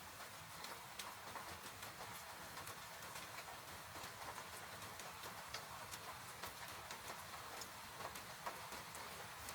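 Wood fire crackling in a fireplace, with scattered sharp pops at irregular intervals, over a steady hiss of falling rain.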